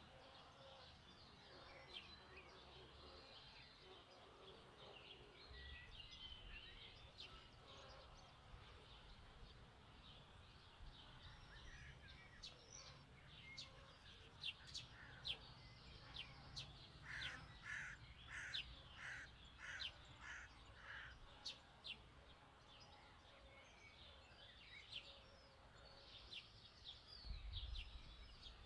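Faint birdsong: several small birds chirping and trilling, with a run of about six evenly spaced calls about two-thirds of the way through. A brief low rumble comes near the end.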